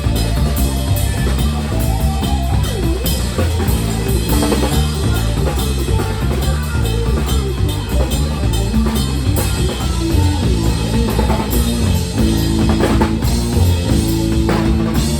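Rock music played on drum kit and guitar, with steady drum strokes under a shifting low-note line.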